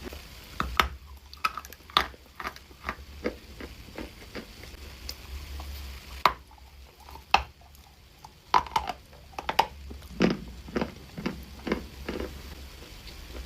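Dry clay crunching and cracking in short, sharp, irregular snaps, with a quieter spell midway.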